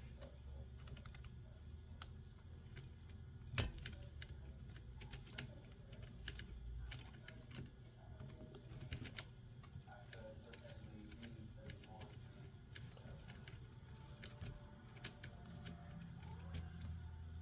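Faint clicks and taps of small RC car parts being handled while a wheel is fitted, with one louder knock about three and a half seconds in.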